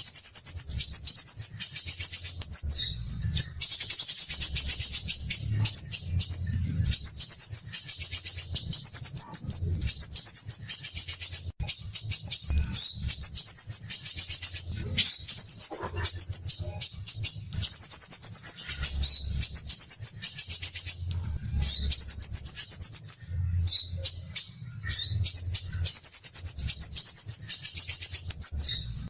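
Crimson sunbird (sepah raja) singing in rapid, harsh, tightly packed high trills. The phrases last one to two seconds each and follow one another with only brief gaps.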